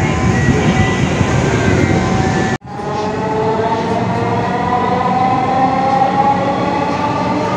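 Dhaka MRT Line 6 metro train heard from inside the car, running with a steady hum. After a momentary dropout about two and a half seconds in, its motor whine rises slowly in pitch as the train picks up speed.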